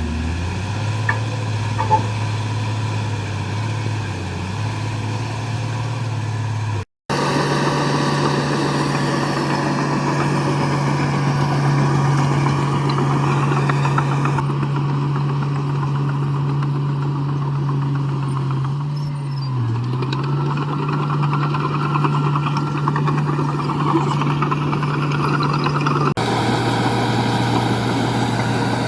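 Komatsu bulldozer's heavy diesel engine running steadily under load, with a brief sag in pitch about two-thirds of the way through. The sound drops out completely for a moment about seven seconds in.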